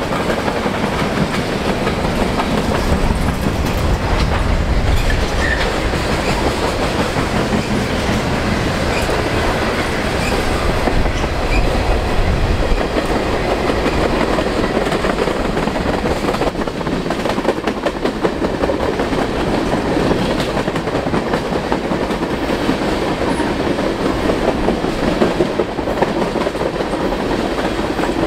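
CN freight train rolling past, its covered hoppers and then tank cars clicking steadily over the rail joints under a continuous rolling rumble. The low rumble is heavier in the first half.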